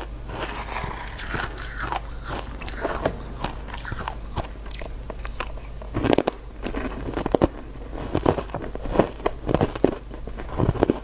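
Ice being bitten and crunched between the teeth close to the microphone: a run of irregular crisp crunches that grows louder and more frequent about halfway through.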